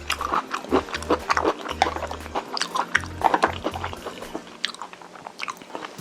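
Close-miked chewing and mouth sounds of a person eating Korean braised chicken: a quick run of short wet clicks and smacks.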